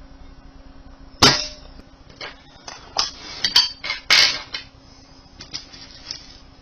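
A shot from a Brocock Concept air rifle about a second in: one sharp crack. A run of metallic clicks and clacks follows from about three to four and a half seconds in, with a few faint ticks after.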